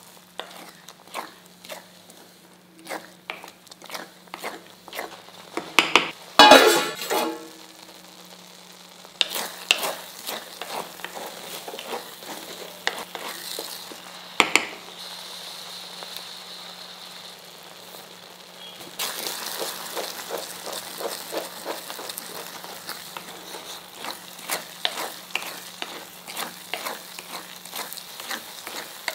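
Grated corn and milk sizzling in a heavy kadai while a spatula stirs it, with many short scraping strokes against the pan. There is a loud burst of stirring about six to seven seconds in, and the sizzle thickens about nine seconds in and again around nineteen seconds, as the milk cooks down and the corn mixture thickens.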